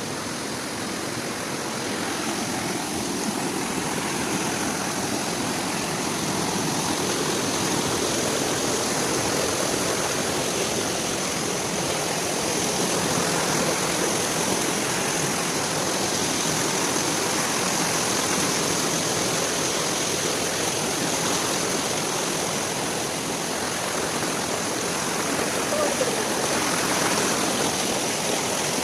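Water of a waterfall and its stream rushing steadily.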